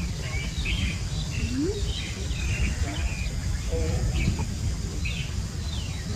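Small birds chirping in the background, many short high chirps and falling whistles, over a steady low rumble. A single low rising call comes about one and a half seconds in.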